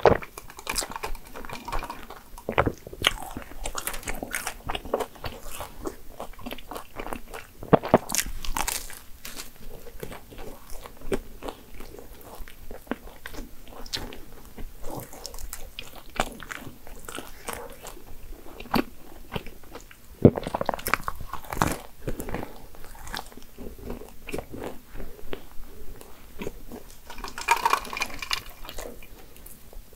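Close-miked biting and chewing of a flaky croissant-style pastry (pain à la crème), its crisp layers crackling with each bite. Near the end there is a sip of iced coffee through a straw.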